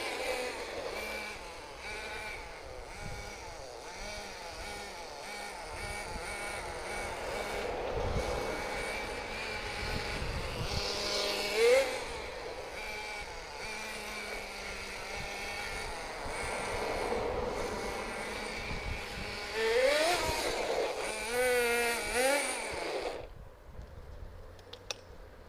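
Small SH .18 nitro engine of a Tamiya NDF-01 RC truck running, running on a slightly richened mixture, with its revs rising sharply several times as the throttle is opened. The engine sound cuts off near the end.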